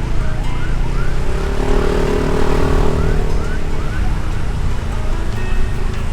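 A siren wailing in quick rising yelps, about three a second, over the constant rumble of a motorbike riding in traffic. A lower steady hum swells and fades about two seconds in.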